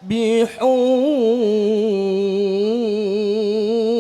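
Male qari reciting the Quran in melodic tilawah style, drawing out one long ornamented note whose pitch wavers and turns, after a brief break about half a second in.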